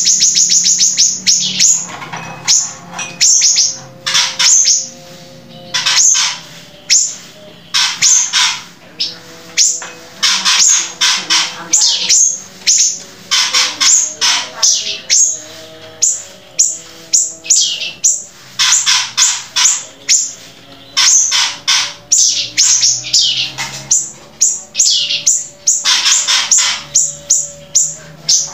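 A songbird singing loud, rapid runs of short, high, sharp chirps, fired off in quick succession with brief pauses between the runs.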